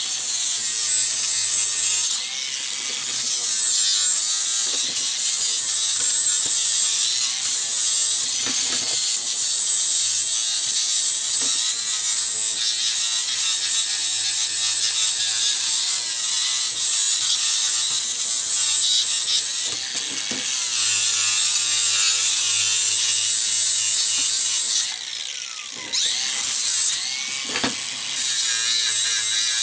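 Angle grinder with a flap disc cleaning up a welded gearbox-mount bracket: a steady high whine over a grinding hiss. It drops off briefly a few times as the disc leaves the metal, most of all a little before the end.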